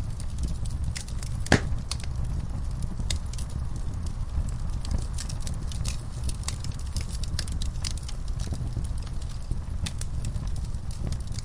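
Fireplace fire crackling: scattered sharp pops and snaps over a steady low rumble, with one louder pop about a second and a half in.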